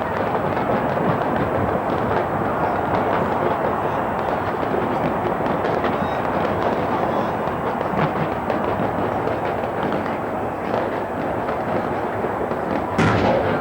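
Large fireworks display: a dense, continuous rattle of crackling bursts and bangs, with a louder bang near the end.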